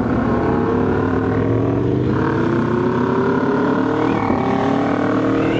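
Aprilia Tuono V4 motorcycle's V4 engine running at light throttle, its revs climbing slowly and steadily.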